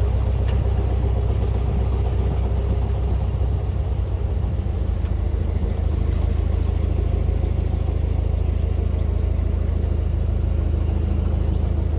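Narrowboat's inboard diesel engine running steadily while under way, a constant low drone.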